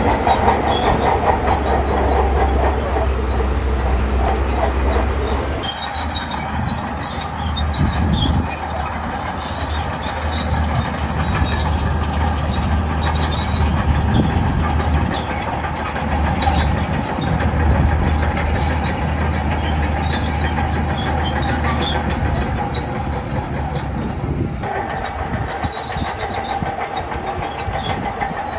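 Shantui crawler bulldozer working: its diesel engine runs steadily under a constant low rumble while the steel tracks clank and squeak in a continuous clatter. The sound changes in character twice, about six seconds in and again near the end.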